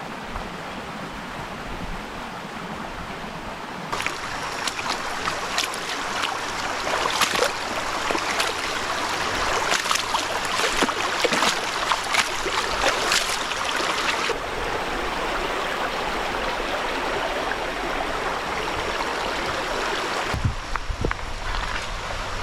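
Stream water rushing, with sharp splashing from about four seconds in until about fourteen seconds, and the sound shifting abruptly near the end.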